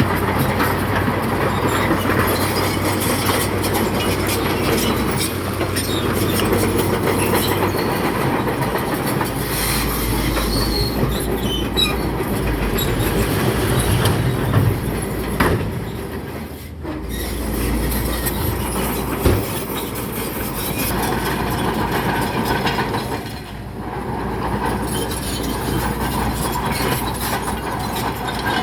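Bulldozer working: its diesel engine runs with the steady clatter of the steel crawler tracks. The sound dips briefly twice, once about halfway and once a few seconds before the end.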